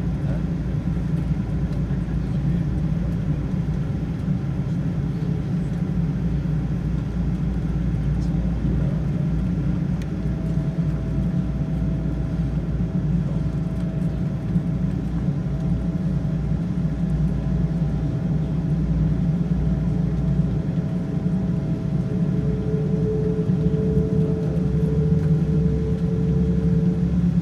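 Steady low cabin rumble inside a Boeing 777-200ER on the ground after landing, from its engines and air systems. A faint steady whine comes in about ten seconds in. Near the end it gives way to a slightly lower whine.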